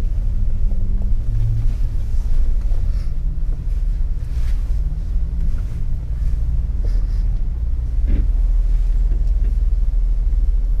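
Jeep engine rumbling low as the vehicle crawls along a rough off-road trail, with a few brief knocks, the clearest about eight seconds in.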